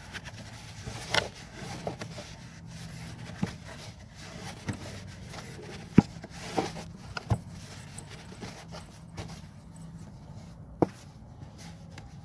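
Hands rubbing and scraping as dirt buildup is cleaned out of small engine parts during an oil change, with occasional sharp clicks and knocks as the parts are handled.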